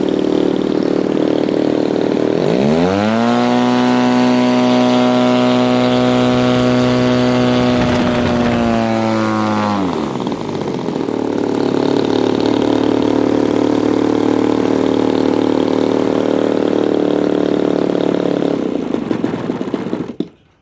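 DLE 30 single-cylinder two-stroke gasoline engine on an RC airplane, swinging a 20-inch prop. It idles, is run up to high throttle about two and a half seconds in and held there for about seven seconds, then drops back to idle. It is shut off near the end.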